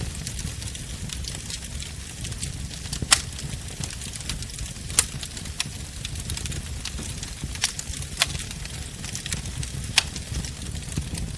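Wood fire burning with a steady low rumble and hiss, and sharp crackles and pops scattered through it, a few louder snaps standing out.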